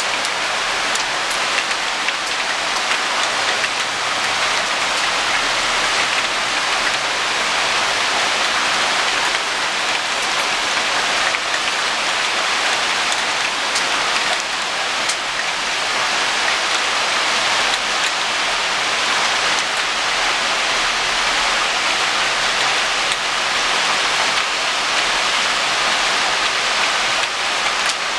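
Heavy rain pouring steadily, a dense even hiss of drops striking surfaces, with a few sharper ticks of drops hitting close by.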